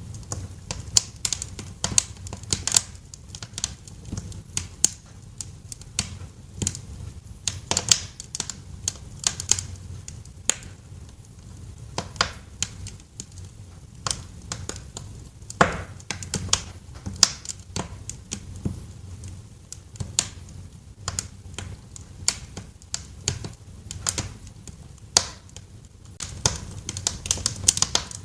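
Wood fire crackling in a fireplace: a constant, irregular run of sharp pops and snaps over a low, steady rumble.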